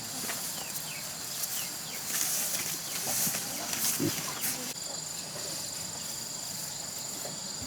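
Farmyard outdoor ambience: small birds chirping in short falling notes over a steady high insect drone, with scattered rustles and clicks and a short animal call about four seconds in.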